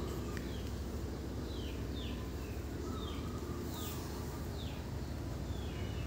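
A small bird chirping in the background: a run of short, falling chirps, about one every half second to a second, over a steady low hum.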